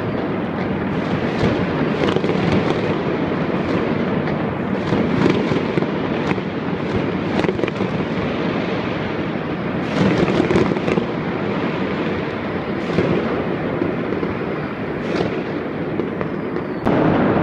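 A dense, continuous barrage of fireworks and firecrackers: many overlapping bangs and crackles with no gaps between them, jumping louder just before the end.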